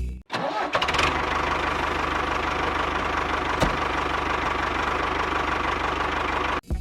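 Small engine of a miniature DIY tractor starting up within the first second, then running steadily with a fast, even beat.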